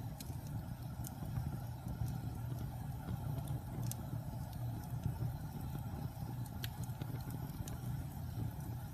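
Wood fire burning in a fireplace: a steady low rumble of the flames with a few sharp crackles and pops scattered through it.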